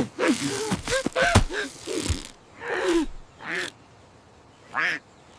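Cartoon character's short gasps and effort grunts mixed with mechanical clanks and clicks, in a string of brief bursts with a pause about four seconds in.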